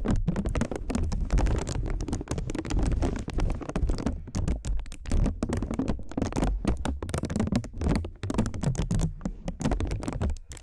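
Rapid, irregular close-up tapping and scratching, a dense run of small clicks.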